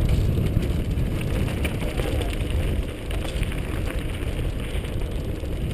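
Wind buffeting the microphone over the rumble of a mountain bike's tyres rolling down a loose dirt trail, with scattered small clicks and rattles.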